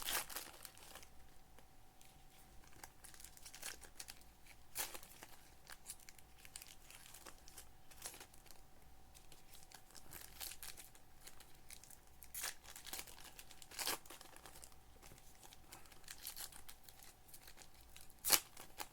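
Trading-card pack wrappers being torn open and crinkled in scattered short bursts, over a faint steady hum.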